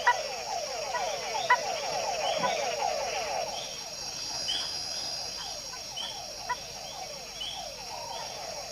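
Night chorus of many mud-puddle (túngara) frogs, their falling whine calls overlapping several to the second. Over it runs a steady high insect trill and a repeated higher chirp about twice a second.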